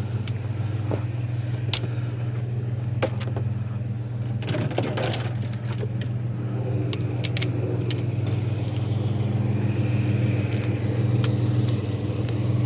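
Vehicle engine idling steadily, with scattered light metallic clinks and rattles of small scrap parts being handled.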